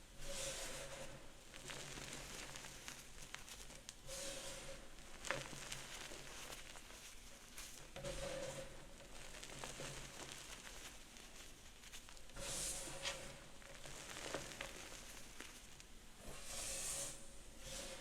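Gym chalk being crushed and crumbled by hand. It makes a soft, gritty crunch with fine crackling, in repeated squeezes about every four seconds.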